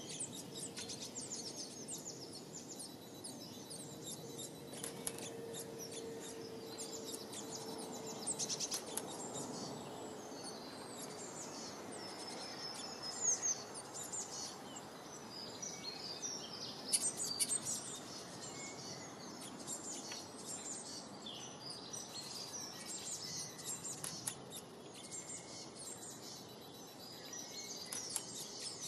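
Small songbirds chirping and twittering: many rapid high calls and short trills, over steady background noise.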